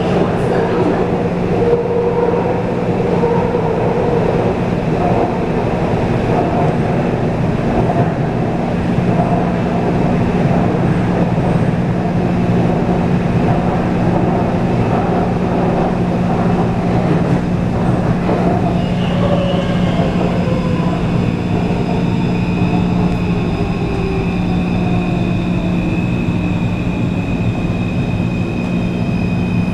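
Taipei Metro C341-type train running at speed with steady wheel and running noise. About two-thirds of the way through, the motor whine falls in pitch as the train begins to slow, and thin high tones come in.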